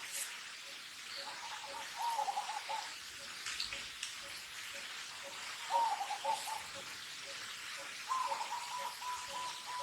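Birds calling: short warbling runs of notes twice, then one long held note near the end, over a soft note repeating about twice a second and a steady hiss.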